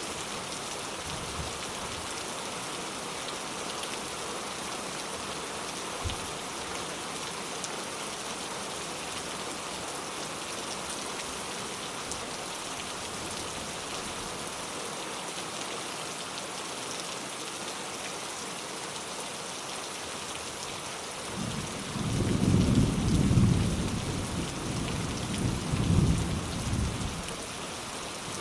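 Steady rain falling, an even hiss, with a roll of thunder rumbling in about three quarters of the way through and fading out near the end.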